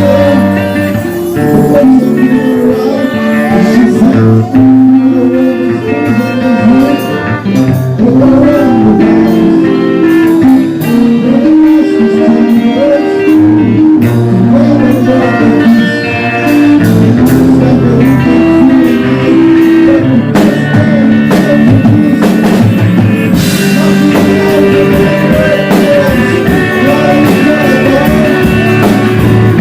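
Loud band music: guitars with a drum kit keeping the beat.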